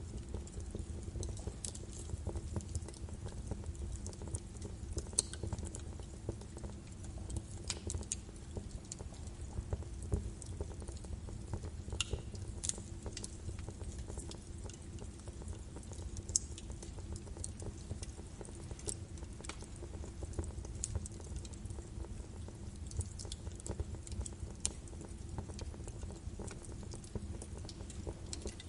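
Birch wood fire burning in a fireplace: irregular sharp crackles and pops over a low, steady rumble.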